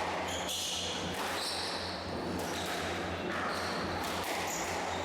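Squash rally: the ball being struck and bouncing off the court, with short high squeaks of shoes on the court floor, over a steady low hum.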